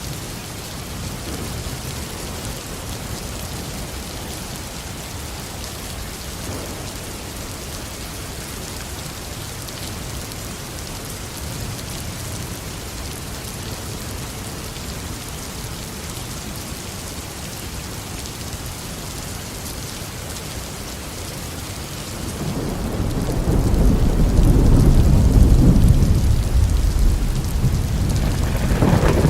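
Steady tropical downpour hissing on the garden, then about two thirds of the way through a long rolling rumble of thunder builds, peaks and rolls on, swelling again near the end.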